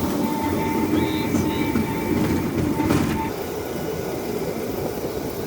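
Rail bike's wheels rolling along the track: a steady rumble with an occasional clack, and a thin steady high tone that stops about three seconds in.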